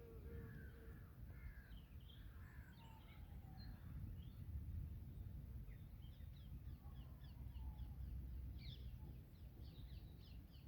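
Faint mix of wild birds calling and singing: scattered short chirps and call notes, with a quick run of repeated notes near the end, over a steady low rumble.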